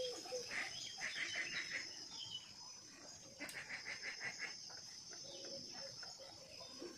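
Birds chirping, with two rapid trills of short notes, one about a second in and one midway, over a steady high-pitched drone.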